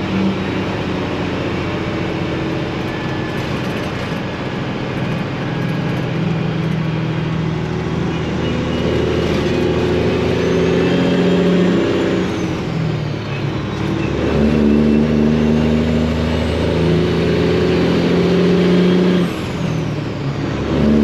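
Detroit diesel engine of a Freightliner semi truck pulling under load, with a faint turbo whistle gliding up and down above the engine note. The engine note eases off briefly twice, once about two-thirds of the way through and again near the end, as with a gear change.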